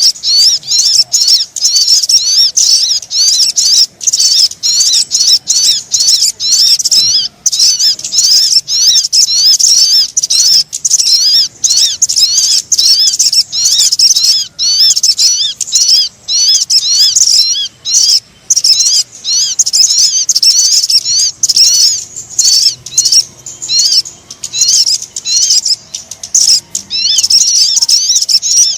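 Sogon birdsong lure call: a fast, unbroken stream of high, thin, twittering chirps.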